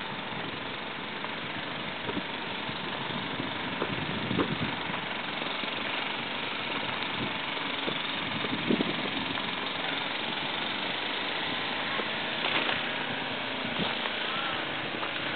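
Snowblower engine running steadily, with a few brief knocks about four, nine and twelve seconds in.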